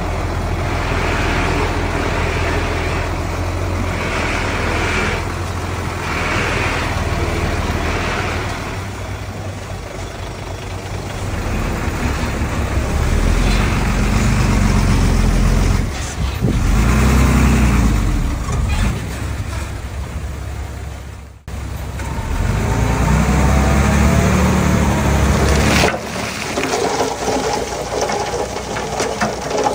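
Heavy diesel engines of a bulldozer and dump trucks working, running loud with the pitch swelling up and down as they take load. The sound breaks off abruptly about two-thirds of the way in, then the engines come back and shift again near the end.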